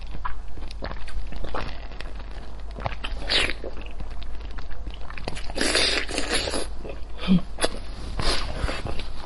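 Close-miked eating: a piece of zucchini being bitten and chewed, with irregular wet mouth clicks and smacks, loudest a little past the middle.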